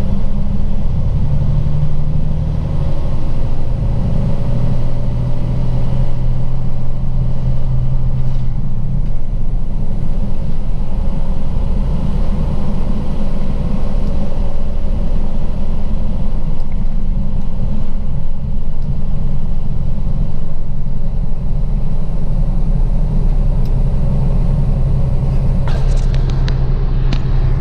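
Semi truck's diesel engine and road noise, heard from inside the cab while driving: a steady low rumble whose engine note shifts in pitch during the first several seconds. A few short clicks near the end.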